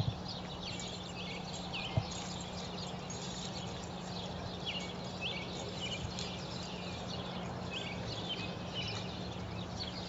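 Small birds chirping in short, repeated calls over a steady low hum and background hiss, with one sharp click about two seconds in.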